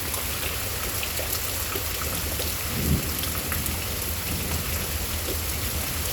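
Steady rain falling, with scattered drop ticks, under a low rumble of distant thunder that swells briefly about three seconds in.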